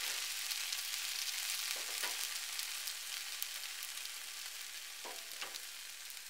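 Yakisoba noodles, pork and vegetables sizzling in a frying pan, a steady hiss that slowly fades, with a few light clicks of chopsticks against the pan.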